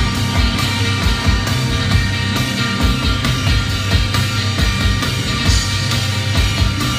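Live rock band playing: sustained electric guitar chords over a steady drum beat.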